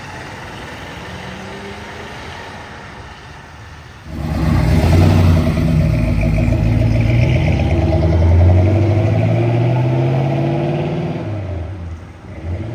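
A car's engine pulling away hard: after a low rumble, a loud engine note comes in suddenly about four seconds in and climbs in pitch as it accelerates, then drops away near the end.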